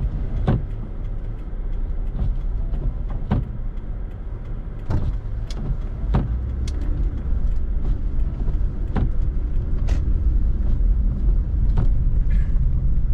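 Steady low rumble of a Toyota RAV4 driving on a snowy road, heard from inside the cabin, with about ten sharp knocks at irregular moments.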